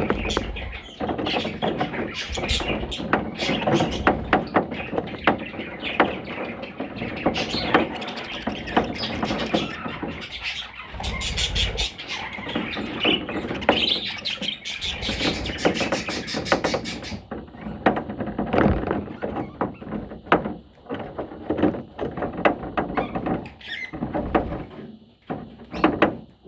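Pet parrots chattering and squawking, full of short sharp calls and clicks, dying away near the end.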